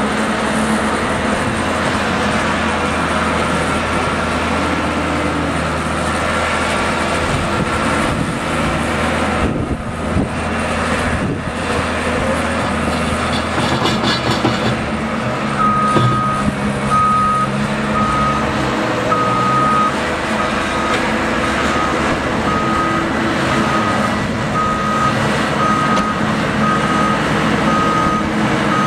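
Heavy snow-clearing vehicle's engine running steadily. About halfway through, its reversing alarm starts beeping at one steady pitch, a little under once a second, as the vehicle backs up.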